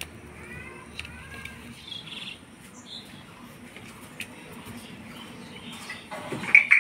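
A bird chirping a quick run of short notes in the first second or so, with a few fainter chirps after. A brief, louder sharp sound comes near the end.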